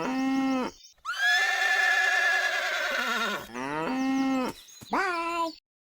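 A horse whinnying in four calls, the second one long and wavering.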